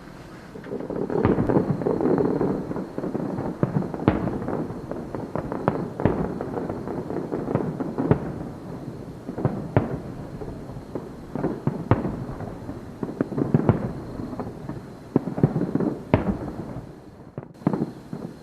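Fireworks display: aerial shells bursting in a quick, irregular series of sharp bangs, with crackle and rumble between them.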